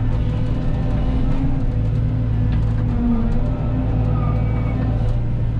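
Cat 313 excavator's diesel engine running steadily, a low drone whose pitch wavers slightly as it works, with faint clicks and clanks over it.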